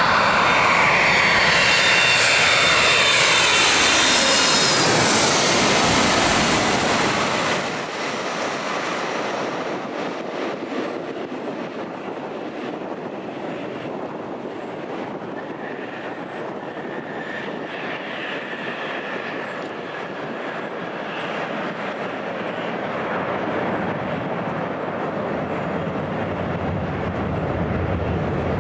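Jet airliner passing low overhead: a loud engine whine made of several tones sliding down in pitch as it passes, then about eight seconds in the sound drops to a steadier, quieter engine noise that slowly builds again near the end.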